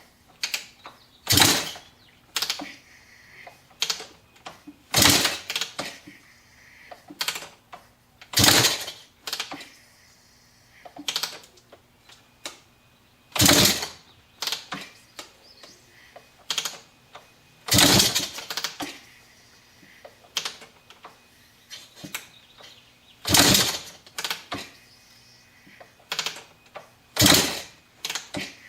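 A 1993 Maico 500 two-stroke single being kick-started over and over: about seven hard kicks roughly every four seconds, each a short clattering turn-over of the engine, with lighter clicks of the kickstarter between them. The engine never fires, because its spark plug is only hand-tight and not connected.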